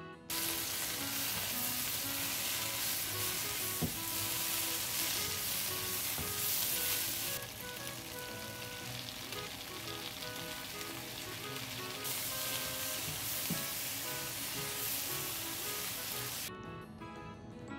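Water spinach and sliced garlic sizzling as they stir-fry in a frying pan, the spatula turning them with an occasional knock against the pan. The sizzle starts abruptly just after the opening and cuts off shortly before the end, over soft background music.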